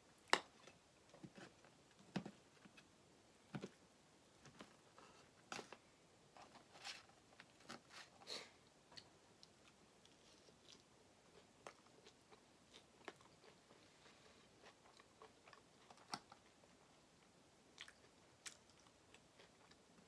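Faint chewing of animal-style fries, with scattered short clicks and taps, including a fork against a metal sheet pan; the sharpest click comes just after the start.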